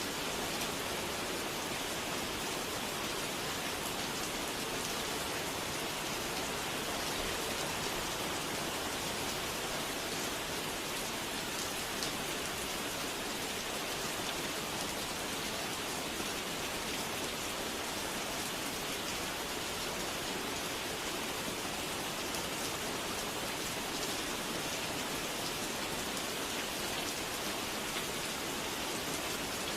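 Steady rain falling, an even hiss of rain on a surface with no break.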